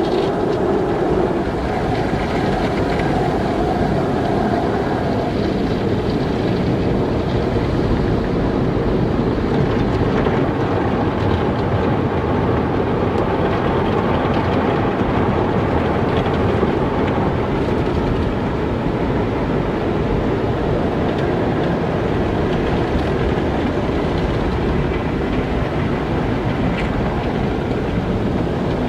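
Car wash machinery running with water spraying: a steady, dense noise with no breaks.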